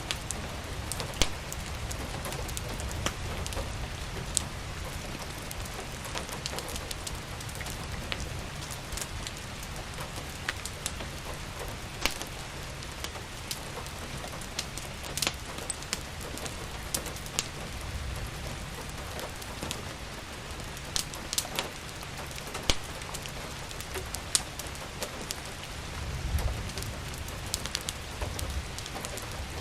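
Steady rain with a low rumble underneath, over which a wood fire crackles and pops in sharp, irregular snaps.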